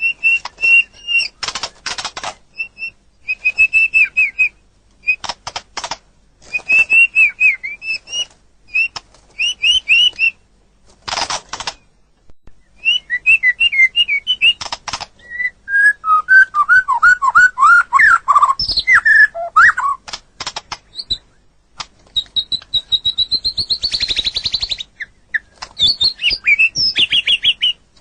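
White-rumped shama (murai batu) singing a long, varied song: clear whistled phrases, falling notes and harsh chattering rattles, broken by short pauses.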